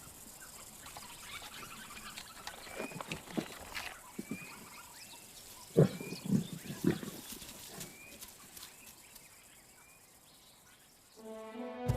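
Lions feeding on a carcass, giving short, irregular low grunts and growls, loudest a little past the middle, with small birds chirping faintly behind. Music comes in near the end.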